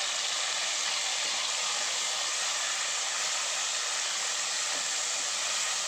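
Chopped tomatoes, shallots and green chillies sizzling steadily in hot oil in a pressure pan.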